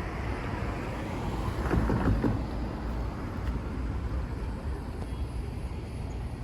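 A road vehicle going by with a low rumble, loudest about two seconds in, over wind noise on the microphone.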